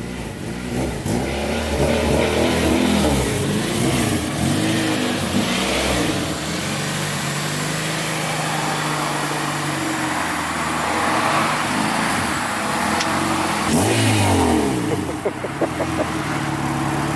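Acura Integra engine running through a newly fitted Vibrant dual-tip muffler exhaust, revving and accelerating so its note rises and falls in pitch several times.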